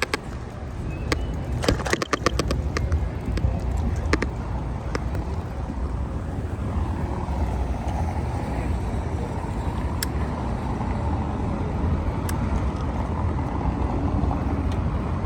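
City street traffic and road noise, with a steady low rumble, and a quick run of sharp clicks and rattles about two seconds in.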